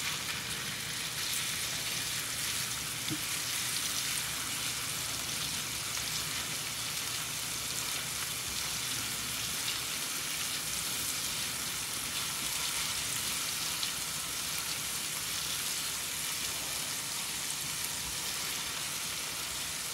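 Ginger-garlic paste and cumin seeds sizzling steadily in hot olive oil in a frying pan: the paste is being fried until its raw smell cooks off.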